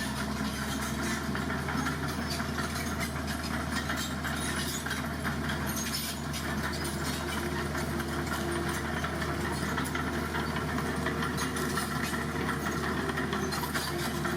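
Heavy diesel engine of road-construction machinery running steadily at an even speed, with a rattling clatter over its note.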